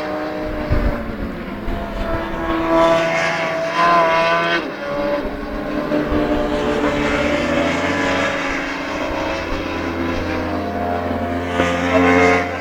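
Racing sidecar engines at high revs on track: several at once, pitch rising and falling as they accelerate, change gear and pass. There are louder passes about four seconds in and near the end.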